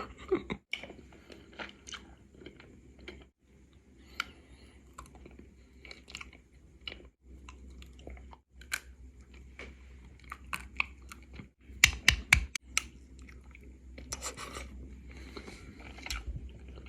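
Chewing and biting frozen wax candy close to the microphone: scattered sharp crunches and clicks of thick, hard wax, with a loud cluster about twelve seconds in.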